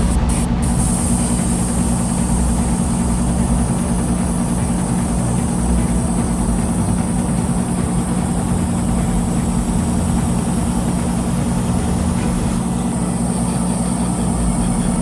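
Steady, unbroken mechanical hum with a constant high hiss, like a small motor running continuously.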